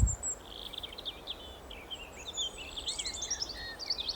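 Several small birds chirping and twittering, with many short overlapping calls that are busiest about three seconds in, over a low outdoor rumble. A brief low thump sounds right at the start.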